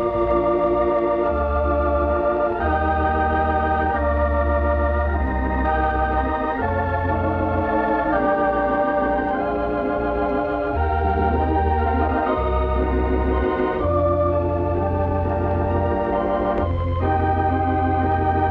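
Organ music playing sustained chords over a held bass line, the chords changing every second or two.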